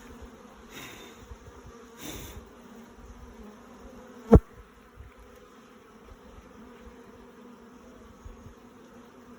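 Honeybees buzzing steadily in a low hum around an opened hive, the colony stirred up after being disturbed. A single sharp knock sounds about four seconds in.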